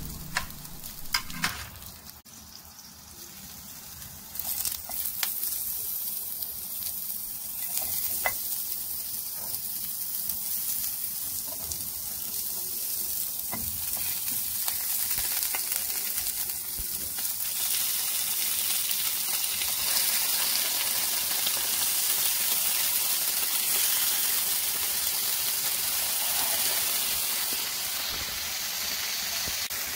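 Sliced onions and tomatoes sizzling as they go into hot oil in a frying pan, the sizzle building and getting louder as more slices are added. There are a couple of sharp clicks about a second in.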